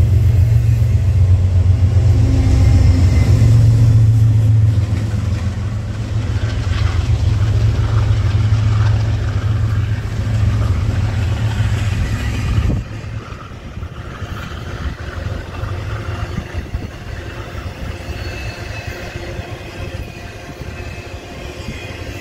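Double-stack intermodal freight train rolling past close by: a steady low rumble with the clatter of cars on the rails, which drops off sharply about thirteen seconds in.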